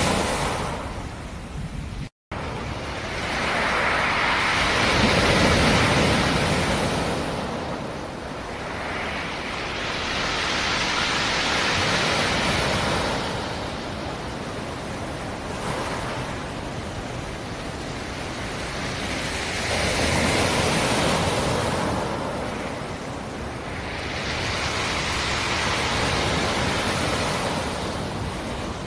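Black Sea surf breaking on a rocky shore: a steady wash that swells into four slow surges as successive waves come in and draw back. The sound cuts out completely for a moment about two seconds in.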